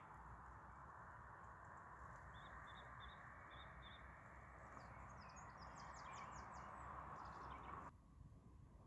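Faint small birds chirping outdoors over a steady low hiss: a run of five short chirps a few seconds in, then a quick flurry of higher calls. The hiss cuts off suddenly near the end.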